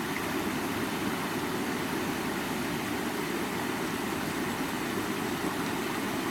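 Creek water flowing, a steady even rush with no breaks or changes.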